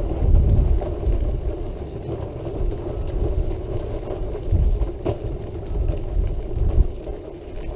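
Electric wheelchair running along a hard-surfaced path: a steady motor hum over an uneven low rumble from the wheels and wind on the microphone, with an occasional small knock.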